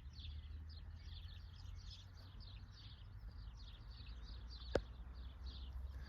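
Faint, steady high-pitched chirping, about four short chirps a second, over a low rumble. A single sharp click comes a little before the end.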